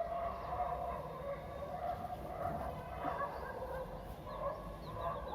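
Domestic fowl calling continuously in the background, wavering calls over a soft rustling that fits a towel being rubbed through wet hair.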